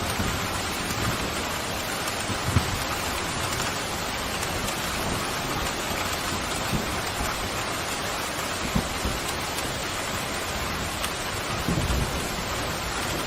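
Steady heavy rain, with a low rumble of thunder starting near the end.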